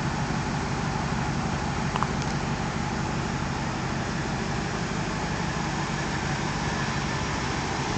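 Ford SVT Lightning pickup's V8 running steadily, with a fast, even low pulse. There is a faint click about two seconds in.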